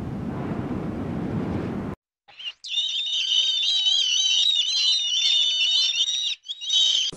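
A low wind-and-surf rumble, then, after a break about two seconds in, a flock of birds calling in a dense, high-pitched chatter with several voices at once, with a brief drop-out near the end.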